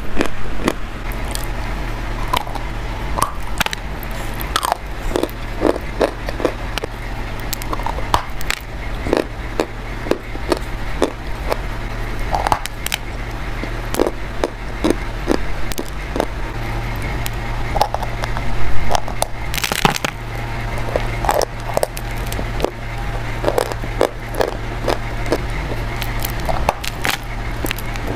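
Close-miked biting and crunching of something brittle, many short irregular crunches in a row, over a steady low hum.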